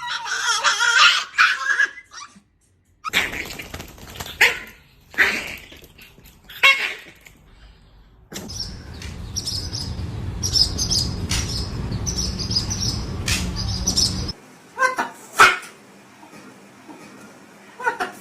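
A dog and parrots calling back and forth in short bursts of barks and squawks. About halfway through comes a stretch of steady low rumble with high chirps over it.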